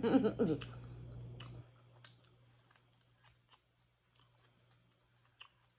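Quiet, close-up chewing of crispy fried fish: a few faint, sharp mouth clicks and crunches spaced well apart. A low hum cuts out about a second and a half in.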